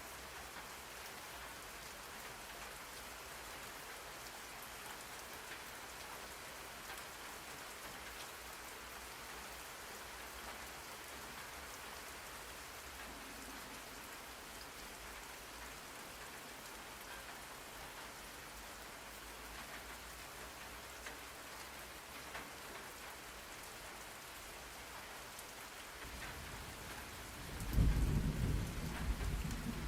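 Steady rain falling. Near the end, a low rumble of thunder rolls in and becomes the loudest sound.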